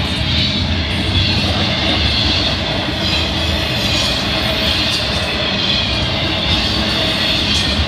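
Florida East Coast Railway intermodal freight train's cars rolling past close by: a steady, loud rumble and rush of steel wheels on the rails, with a few faint clicks.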